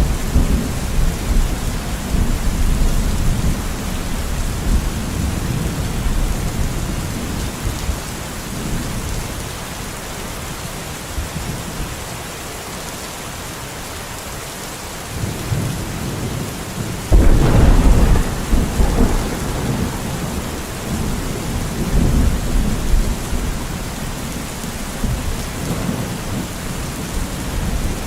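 Steady rain falling in a thunderstorm, with rolling thunder. The low rumble dies down toward the middle, then a sudden loud thunderclap comes about two-thirds of the way through and rumbles on as it fades.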